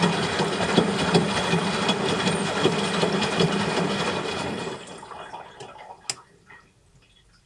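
Water rushing and sloshing inside a front-loading washing machine on its drain-and-spin cycle. It dies away about five seconds in, leaving a few faint clicks.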